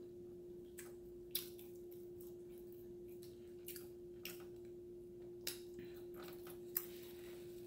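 A person quietly chewing a mouthful of hamburger, with a handful of sharp, scattered wet mouth clicks and smacks. A steady low hum runs underneath.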